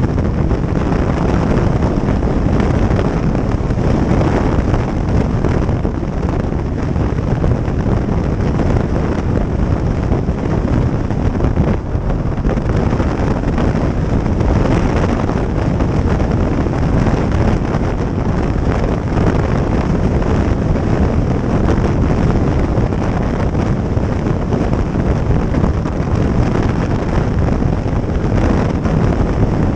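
Wind rushing over the microphone of a motorcycle under way, with the bike's running and road noise mixed in; loud and steady throughout.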